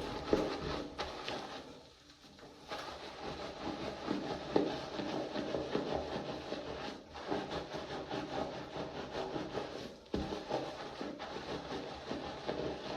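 Hands scrubbing and working product through wet hair and scalp: a close, steady crackly rubbing made of many small squishes, broken by short pauses about two, seven and ten seconds in.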